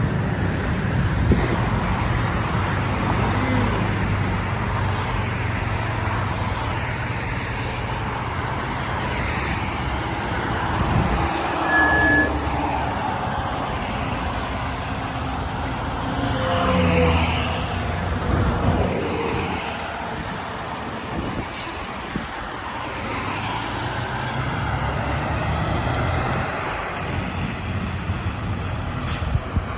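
Fire engine running and pulling away amid road traffic noise, with a low engine rumble through the first part and a brief high tone about twelve seconds in.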